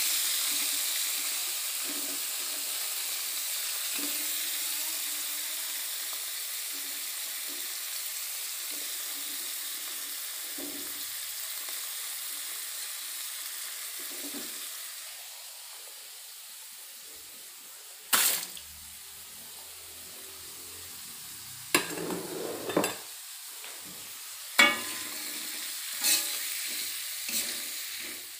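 Vegetables sizzling in hot oil in a wok, a steady hiss that is loudest at first and dies down over the first fifteen seconds. From about eighteen seconds in, a metal utensil clinks and scrapes against the wok several times as the vegetables are stirred.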